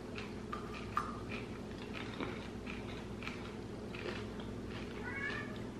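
Chewing a candy-coated chocolate peanut: faint crunches and mouth sounds, with a few small clicks. A brief murmur comes near the end.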